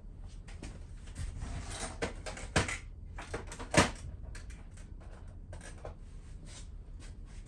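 Hand tools clicking and clinking against a Harley-Davidson Sportster Evolution engine as its spark plugs are taken out, with two sharper metal knocks a few seconds in.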